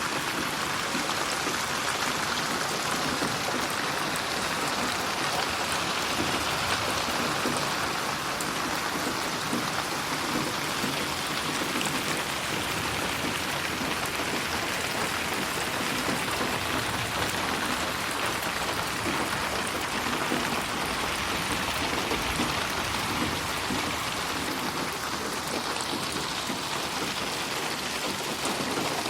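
Steady rain falling, an even hiss of drops on a surface with fine patter throughout.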